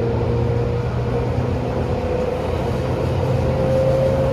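Tobu 10000 series electric train running, heard from inside the car: a steady whine from the drive, rising slightly in pitch, over a low rumble and hum of the wheels on the rails.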